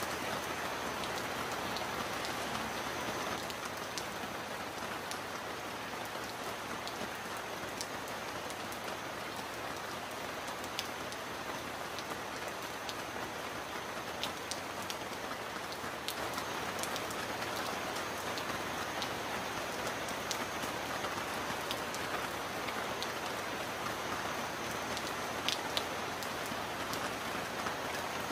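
Steady rain falling on surfaces, an even hiss with scattered sharper drops ticking close by.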